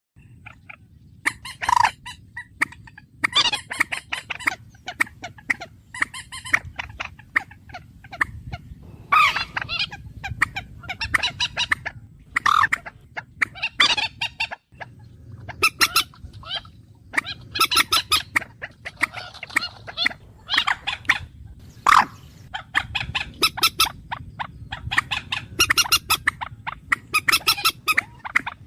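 Bird calls: repeated bursts of rapid, rattling notes, each about a second long, coming every second or two over a steady low hum.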